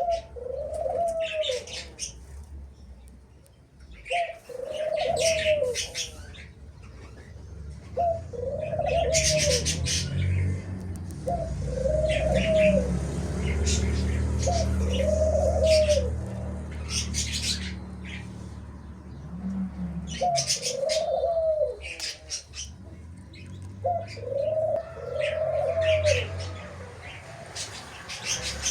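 A dove cooing over and over, a short arched coo every couple of seconds, while small cage birds chirp in quick bursts above it. A low rumble swells and fades through the middle.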